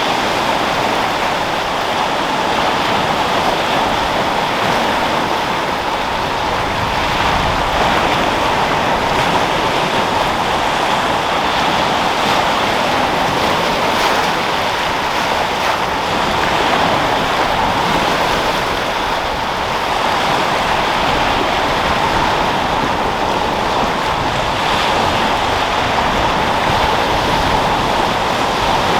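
Sea waves breaking and rolling in as continuous surf, with wind. A steady wash of noise that swells and eases gently.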